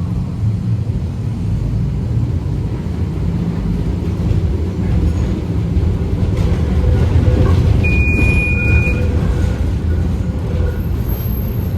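Heritage tram running on its rails, a steady low rumble, with a brief high squeal about eight seconds in that lasts about a second.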